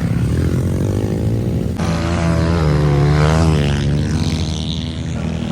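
Pit bike engines running. About two seconds in the sound changes abruptly, and an engine's pitch then rises and falls as it revs.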